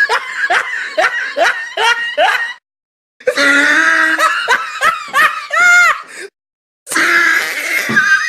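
Short meme sound-effect clips of laughter played back to back, each cut off abruptly with a brief dead-silent gap before the next. The first is a rhythmic 'ha-ha' laugh, about two beats a second; the next clip ends on a voice sliding up and down.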